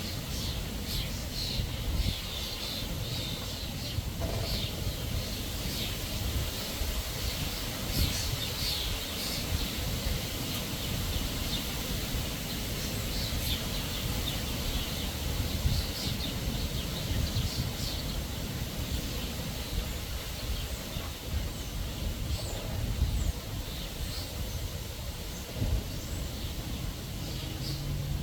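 Backyard birds chirping, many short high calls repeated throughout, over a steady low rumble.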